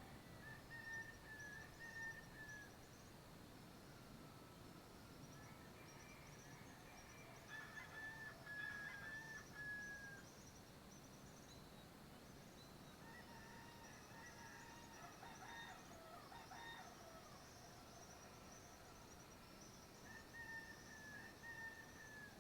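Faint rooster crowing, about four drawn-out crows a few seconds apart, each a second or two long, over a steady high chirring of insects.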